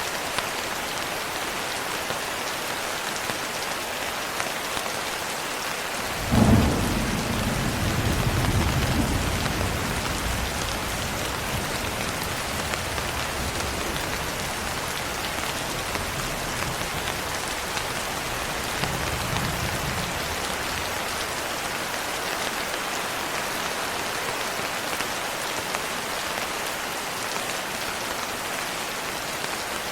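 Steady rain on a window, with a sudden clap of thunder about six seconds in that rolls on for several seconds, and a fainter rumble of thunder later.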